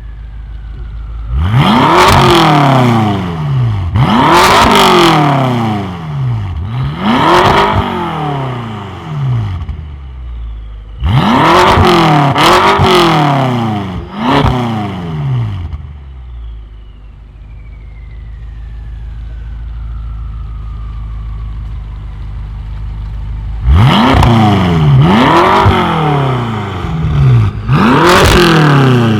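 Tuned car engine with a loud aftermarket exhaust being free-revved in short hard blips, each rising sharply and dropping back. The blips come in groups of three: one set, another set after a short gap, then a stretch of idling before three more.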